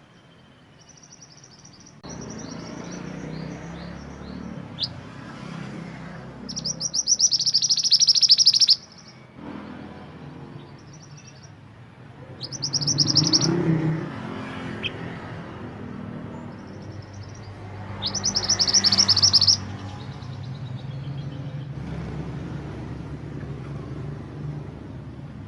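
Mantenan gunung songbird singing: three loud, fast trilled phrases, each lasting a second and a half to two seconds, with a few short high notes between them, over a low steady rumble.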